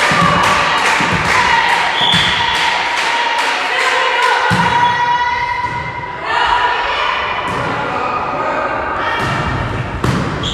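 Rhythmic thumping in a volleyball hall, about four beats a second, with long pitched shouts of voices over it. The beats stop about five seconds in, and the calling voices go on after that.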